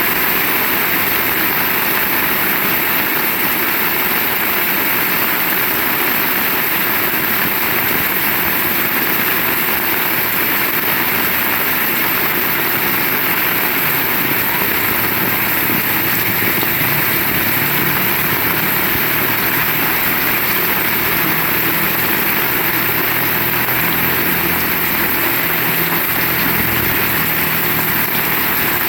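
Heavy rain falling steadily in a dense, even hiss. From about halfway through, a faint low hum joins it.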